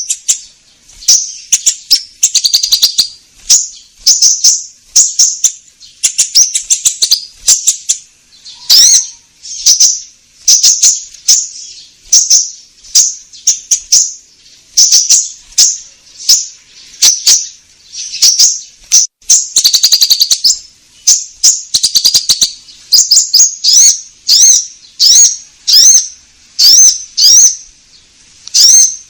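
Konin bird song played as a lure call: loud, high-pitched chirping phrases repeated about once a second, the recording distorted by clipping.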